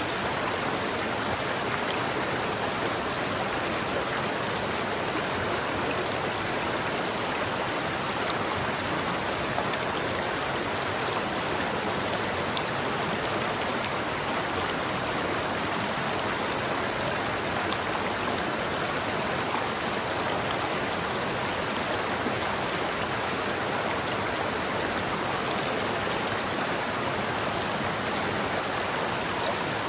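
River water flowing over rocks: a steady, even rushing with no change in level.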